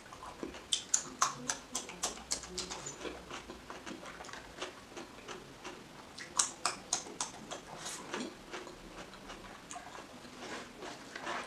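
Close-up crunching of raw cucumber being bitten and chewed: irregular sharp crisp cracks, in a cluster near the start and another about six seconds in.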